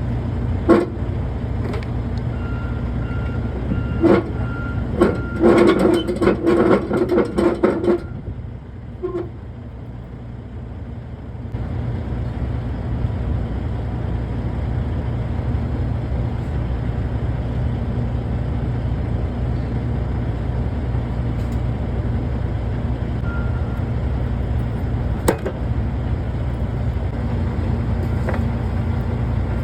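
Diesel truck engine idling with a steady low rumble, with a run of metallic clanks and rattles in the first eight seconds and a single knock near the end.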